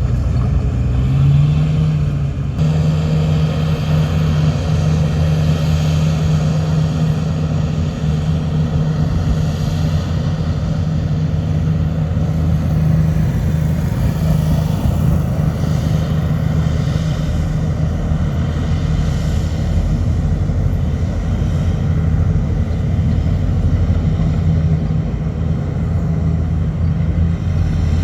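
Diesel engine of heavy earthmoving machinery running steadily under load, a loud, even drone that steps up in pitch about a second in and then holds.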